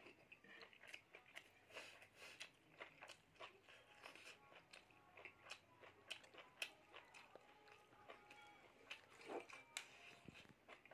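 Close-miked eating sounds of a person chewing a mouthful of rice and pork: soft, irregular smacks and crunches, several a second, with fingers working rice on a steel plate.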